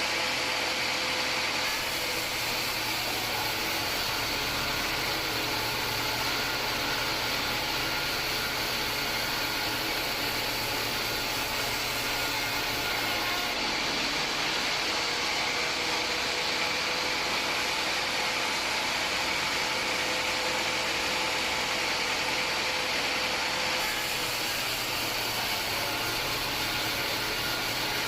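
Homemade band sawmill running steadily: a constant mechanical drone with a high, even whine and no breaks.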